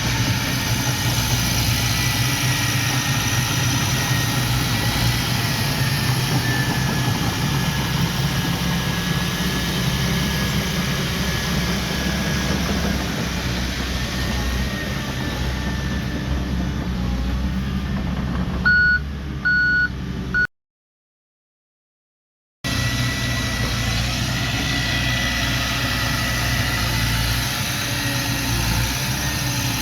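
Heavy diesel earthmoving machinery running steadily, with a reversing alarm beeping three times a little past the middle. The sound then cuts out completely for about two seconds before the engine returns.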